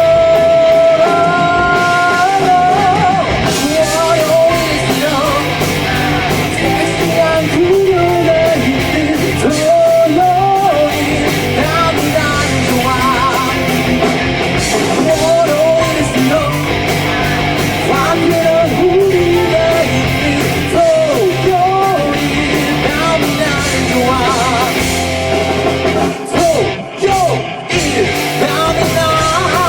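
Live rock band playing: a lead singer over electric guitars, bass, drums and keyboard, with a steady drum beat throughout. The music drops out briefly a couple of times near the end.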